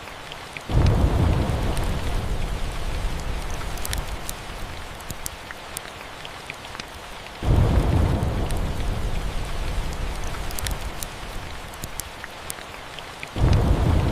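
Steady rain with small fireplace crackles, broken three times by thunder: about a second in, midway, and near the end. Each clap rumbles in suddenly and slowly fades.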